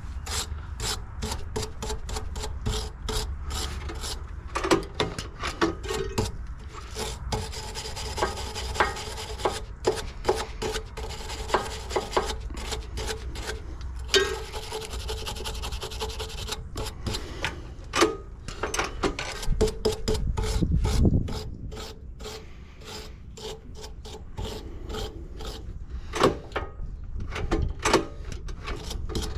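A brush scrubbing pressure washer pump parts in quick back-and-forth strokes, in runs with short breaks.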